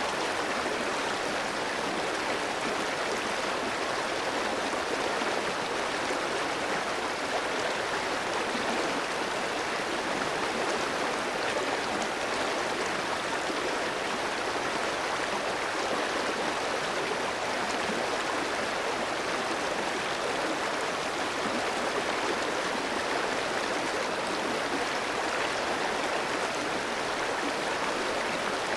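Clear mountain stream flowing over rocks: a steady, even rush of water with no breaks or changes.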